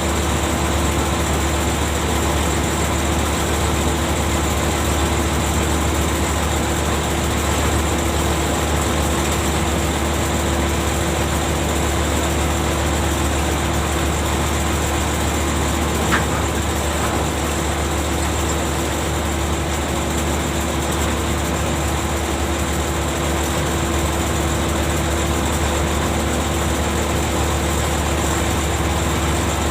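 Ship's machinery running steadily: an even, low heavy-engine drone with a steady hum above it. A single sharp click about 16 seconds in.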